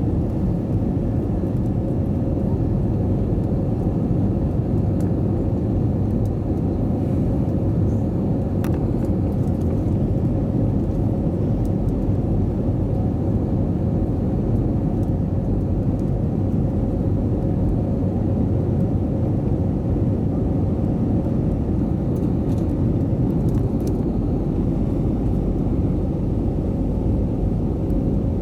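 Cabin noise inside an Airbus A320 airliner in flight: a steady deep rumble of the jet engines and airflow, with a steady hum running through it.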